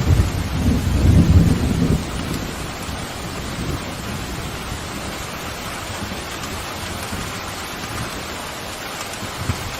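Steady heavy rain with a deep rolling rumble of thunder that dies away about two seconds in, leaving the rain alone.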